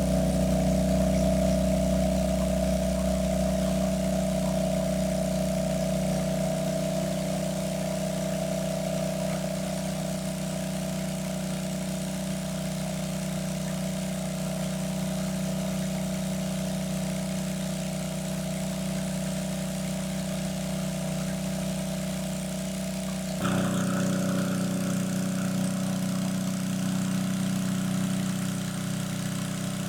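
A small engine running steadily with a droning hum. Its sound changes abruptly about twenty-three seconds in.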